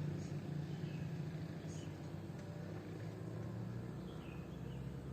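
A motor vehicle engine running with a steady low hum, with a few faint, short, high bird chirps over it.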